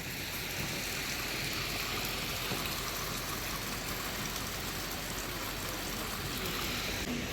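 Water of a mountain stream rushing and splashing in a steady, even rush.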